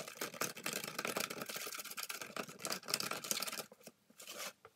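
Bristle brush scrubbing metal lathe-chuck parts, rapid scratchy strokes that stop about three and a half seconds in, with one more short burst near the end.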